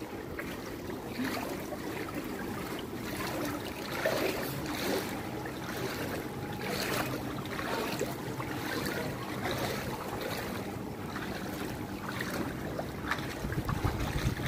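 Floodwater sloshing and splashing, with wind buffeting the microphone and a faint steady low hum underneath.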